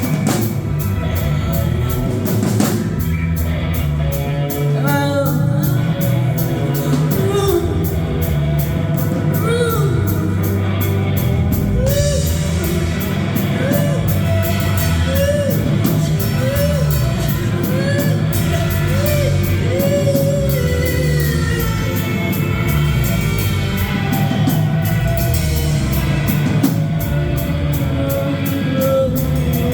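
Live band playing a heavy rock arrangement, with a steady drum kit and bass and a voice singing over it. Midway through, a short rising-and-falling phrase repeats about once a second, eight or so times.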